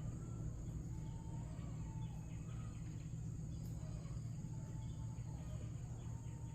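Rural ambience: a steady high insect drone with faint, short bird chirps over a low, steady rumble.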